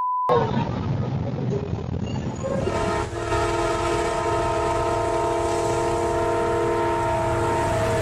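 A brief high beep, then the rumble of an approaching train. About two and a half seconds in, a multi-note locomotive horn starts sounding a steady chord and holds it.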